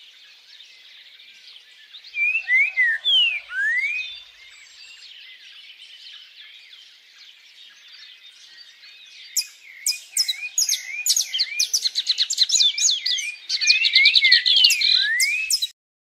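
Birds chirping and whistling: a few slurred whistles about two seconds in, then a dense run of quick, repeated chirps from several birds that cuts off abruptly near the end.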